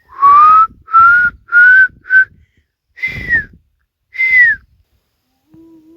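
Whistled pearl-spotted owlet call: four short rising whistles, then two higher notes that fall away at the end. A faint low tone rises near the end.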